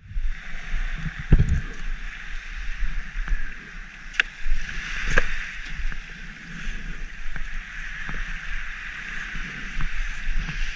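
Steady muffled wash of surf and wind heard through a GoPro's waterproof housing, with a low buffeting rumble and a few sharp knocks from handling the camera and gear.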